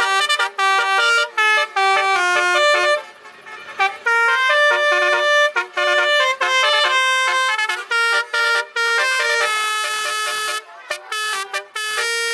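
Truck-mounted basuri (telolet) air horns playing a tune: loud held notes stepping up and down from one to the next, with a short break about three seconds in and a few quick stabbed notes near the end.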